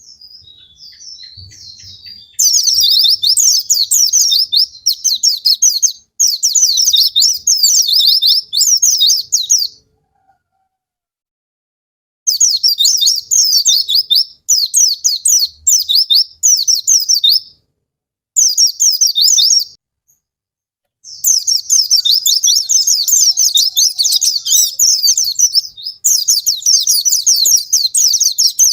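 White-eye (pleci) song: a fast, high twittering chatter in loud phrases of a few seconds each, broken by short pauses.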